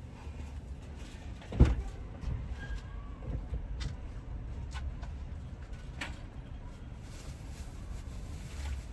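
A single heavy thump about a second and a half in, then a few light clicks and knocks over a steady low rumble.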